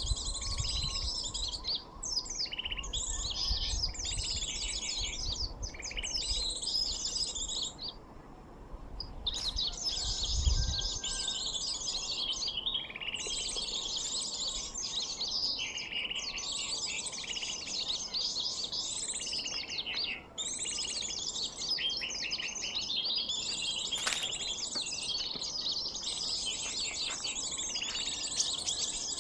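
Rapid, high twittering chirps of small birds in dense phrases a second or two long with short gaps, and one longer pause about eight seconds in: an mp3 lure call for sunbirds being played. Low rumbles come in near the start and about ten seconds in.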